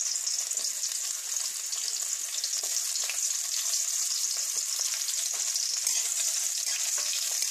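Bitter gourd slices sizzling as they fry in hot mustard oil in a kadai: a steady crackling hiss.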